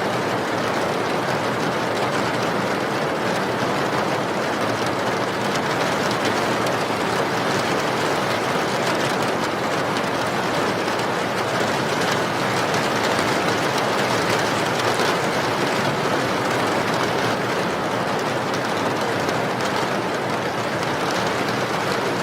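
Steady rain, an even hiss with fine dense patter that holds level throughout.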